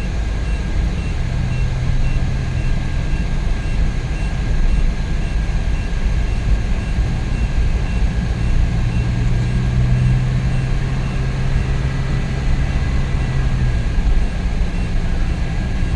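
Cabin noise of a Suzuki DA64V van cruising on the highway: the freshly rebuilt K6A three-cylinder engine keeps a steady hum under road and wind rumble. It runs evenly, with no strange noises.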